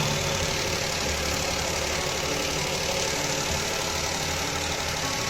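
Toyota petrol engine idling steadily while it has a misfire that is being diagnosed, traced here to the ignition coils and their connector.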